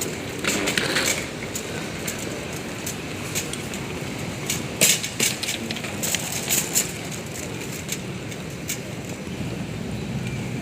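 Steady airport-terminal background noise with scattered sharp clicks and rattles, clustered about a second in and again around five to seven seconds in.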